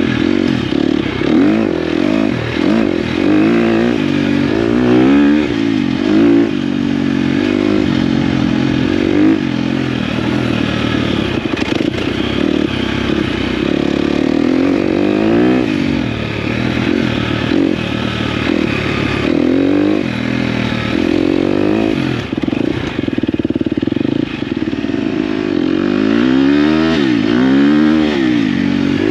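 Dirt bike engine revving up and dropping back again and again as it is ridden, its pitch rising and falling with throttle and gear changes.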